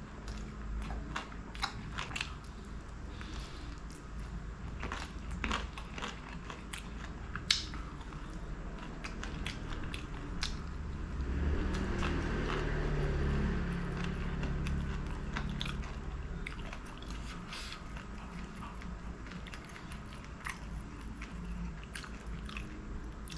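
Close-up chewing of chicken leg meat, with wet mouth clicks and smacks throughout. The chewing gets louder and denser about halfway through.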